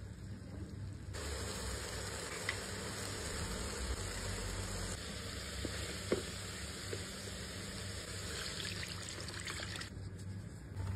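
Grated tomato sizzling in hot oil in an enamel pan, stirred with a spoon, with a few light clicks of the utensil against the pan. The sizzle sets in about a second in and eases off near the end.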